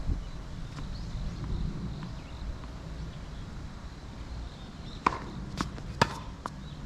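Tennis ball impacts on a hard court: four sharp knocks about half a second apart in the last two seconds, the second of which is the loudest. Wind rumbles on the microphone throughout.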